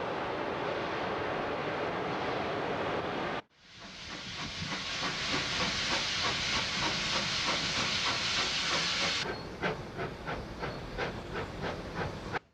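Narrow-gauge steam train running, with a steady hiss of steam. The sound breaks off briefly about three seconds in. Near the end the hiss gives way to an even rhythmic beat of about three to four a second.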